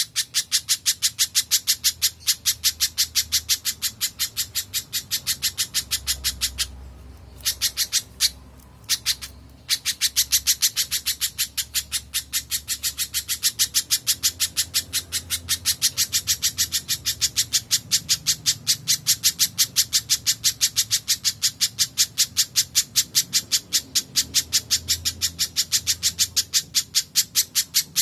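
Spiderhunter (pijantung) calling nonstop: a rapid, even series of sharp notes at about four a second, broken by two short pauses about a third of the way in.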